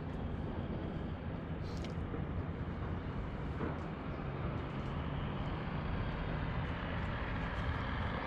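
A steady low engine hum over a noisy background, with no distinct events.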